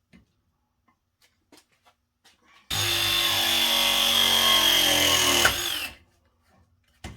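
Power drill running steadily for about three seconds with a high whine, then winding down as the trigger is released, after a few light clicks of handling. A short burst of the drill comes just before the end.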